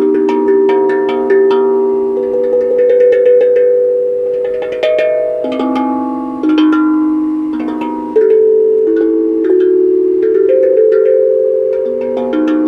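Tuned metal percussion played melodically: quick struck notes, each ringing on in a bell-like tone and overlapping the next.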